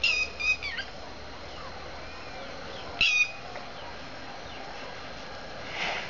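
A bird chirping in two short bursts of high, quick calls, one at the start and one about three seconds in, over steady background noise.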